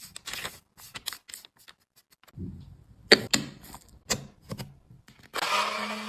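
Clicks, taps and brief scraping of tools and a plastic powder compact being handled during a repair. About five seconds in, a small electric motor starts and keeps running with a steady whir and low hum.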